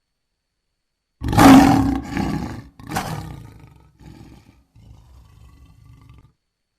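African lion roaring: a loud roar starting just over a second in, a second weaker one, then a few fading low grunts that stop about a second before the end.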